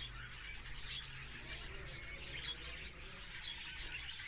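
Many small birds chirping and chattering at once, a dense continuous twitter of quick high-pitched calls.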